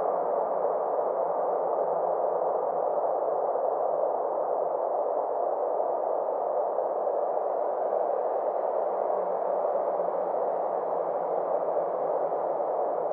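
Steady synthesized space-ambience drone: a band of muffled noise with a faint low hum under it and a slow sweep in its upper edge.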